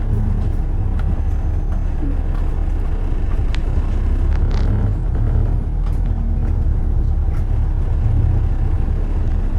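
Steady low rumble of city road traffic, with a short hiss about four and a half seconds in.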